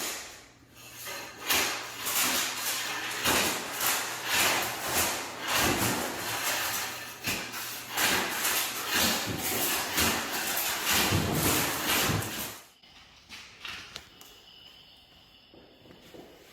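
Demolition work: old floor tile being scraped up and broken, with repeated harsh scraping and knocking strokes about one or two a second, which stop about three-quarters of the way through.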